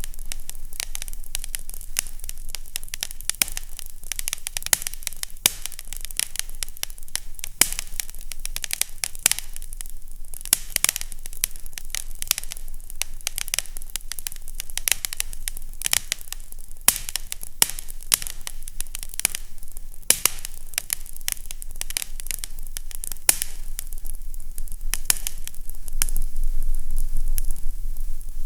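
Fireplace crackling: many sharp, irregular pops and snaps over a steady hiss, with a faint low hum underneath.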